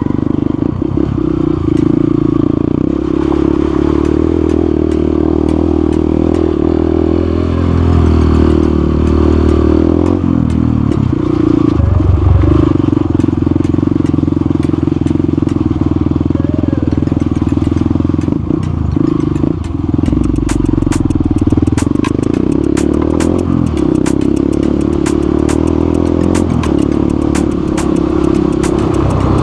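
Motorcycle engine running steadily under way, with wind noise on the microphone. The engine note breaks and shifts briefly about ten seconds in, then settles again.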